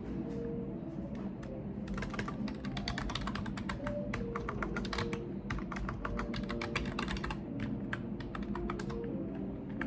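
Typing on a computer keyboard: a few scattered keystrokes, then two quick runs of fast typing separated by a short pause, before slowing to occasional key presses near the end.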